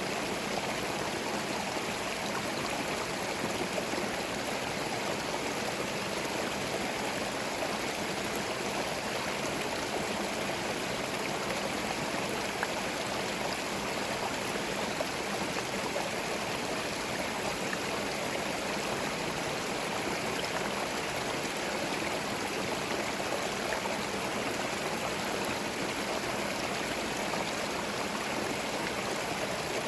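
Small forest stream flowing over stones, a steady babbling and gurgling of running water.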